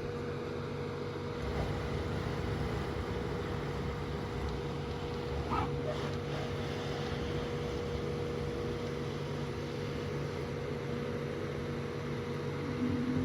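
A steady mechanical hum with a constant tone over an even rushing noise, like a vehicle idling with its fan running. A short squeak comes about five and a half seconds in.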